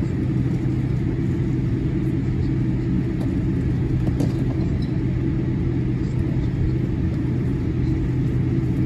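Steady low cabin rumble inside a Boeing 787-8 taxiing, with a constant low hum from the engines at idle and the air conditioning.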